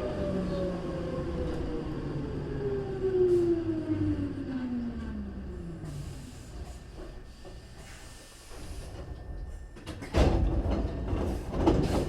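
Hankyu 3300 series electric train braking into a station: the traction motor whine falls steadily in pitch over about six seconds as the train slows to a stop. From about ten seconds in come loud knocks and rattles, the doors sliding open.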